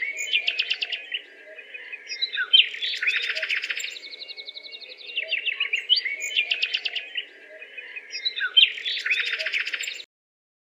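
Songbirds chirping and trilling in rapid high notes, the same stretch of song repeating about every four and a half seconds as a loop, then cutting off suddenly near the end.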